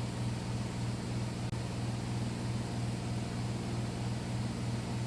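2012 Pelonis Elite heat pump running with a steady low hum over an even, fan-like hiss.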